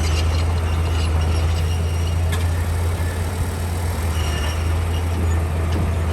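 Komatsu D41P bulldozer's diesel engine running steadily with a low, even hum, and a single sharp click about two seconds in.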